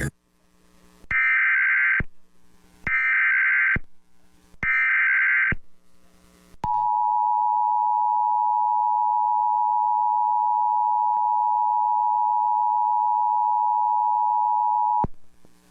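Emergency Alert System tones: three short bursts of SAME digital header data, then the steady two-tone EAS attention signal held for about eight seconds. Together they announce a severe thunderstorm warning.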